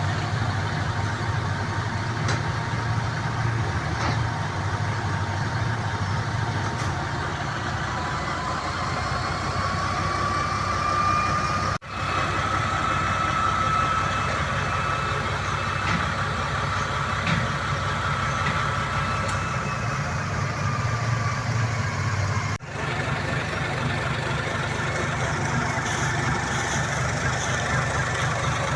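A dump truck's engine runs steadily, with a faint whine that rises about a third of the way through, holds, then fades. The sound cuts out for an instant twice.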